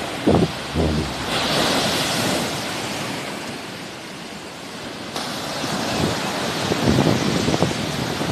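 Sea waves on the shore: a continuous surf wash that swells about a second in and again after about five seconds. Wind buffets the microphone with low rumbling gusts at the start and near the end.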